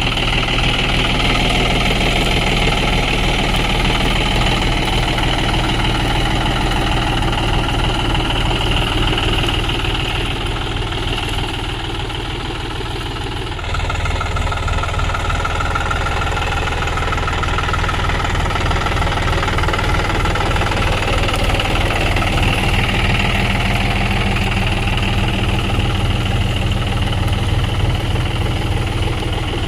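John Deere tractor's diesel engine running steadily at low revs in low first gear while pulling a cultivator through a garlic field. The note dips slightly a little past ten seconds in, then changes abruptly about fourteen seconds in.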